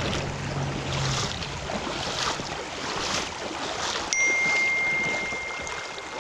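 Shallow creek water flowing over rocks, with a few splashes about a second apart. About four seconds in, a steady high-pitched electronic tone starts suddenly and holds, louder than the water.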